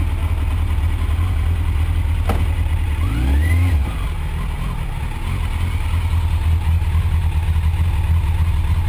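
Yamaha Fazer FZS600's inline-four engine running at low speed, with a short rise in revs about three seconds in; a sharp click comes a little before that.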